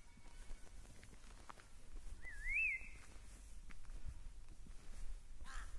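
A bird calling: one wavy whistle that dips and rises about two seconds in, and a shorter call just before the end, over a low rumble and faint steps on the road.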